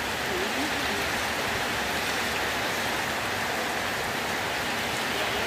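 Heavy rain falling on a wet road, a steady, even hiss of rain on the surface.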